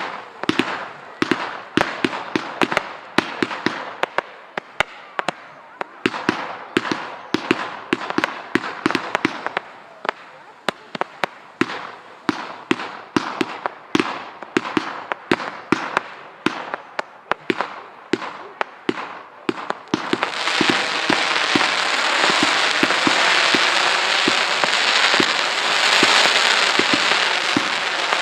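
Fireworks display: a fast run of sharp bangs, several a second, for about twenty seconds. The bangs then give way to a dense, continuous crackle.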